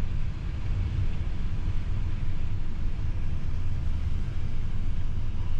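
PKP Intercity express train running at about 160 km/h on smooth track: a steady low rumble of wheels and running gear, with no sharp rail-joint clacks.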